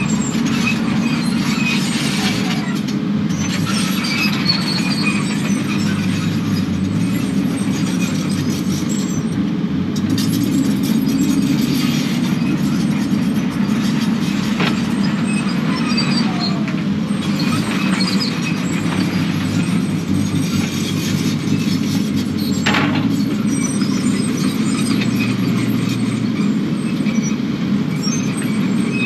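Kubota KX080 excavator's diesel engine running steadily under work, with short high metallic squeals scattered through.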